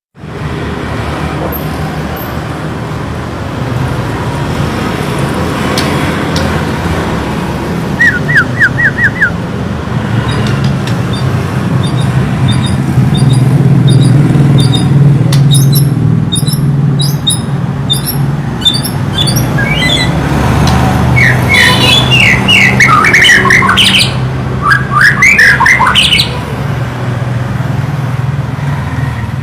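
White-rumped shama (murai batu) singing: a quick run of a few short whistled notes, then from about halfway a busy stretch of varied, rapid whistles and chips, over a steady low rumble.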